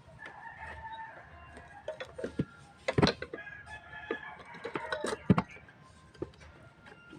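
Chickens clucking and crowing in the background, with several sharp knocks; the loudest come about three seconds in and just past five seconds.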